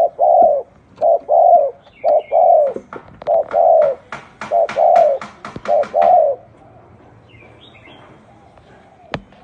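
Spotted dove cooing: about six two-part phrases, a short note then a longer falling one, roughly one a second, stopping about two-thirds of the way through. Sharp clicks sound among the later coos and once near the end, with faint chirps of small birds.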